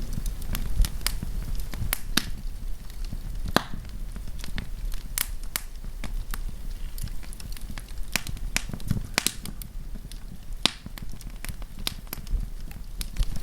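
Wood campfire crackling, with irregular sharp pops and snaps every half second or so over a steady low rumble of the flames.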